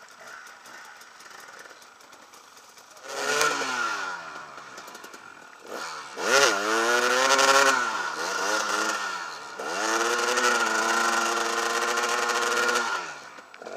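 Husaberg TE 300 two-stroke enduro engine running low, then revved hard in surges with rising and falling pitch about three and six seconds in, and held high for a few seconds near the end as the bike is ridden through bog and over wooden pallets.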